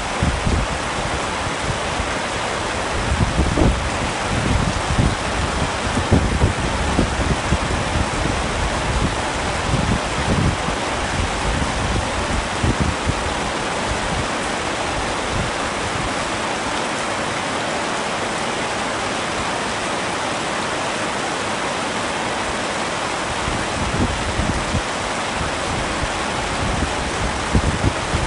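Heavy rain falling in a steady, dense hiss. Irregular low rumbles come and go through the first half and again near the end.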